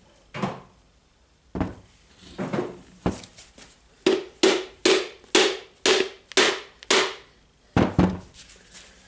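A run of sharp taps on the rotary hammer's gear housing: a few scattered knocks, then about eight evenly spaced strikes at roughly two and a half a second, each with a short ring, and two more knocks near the end.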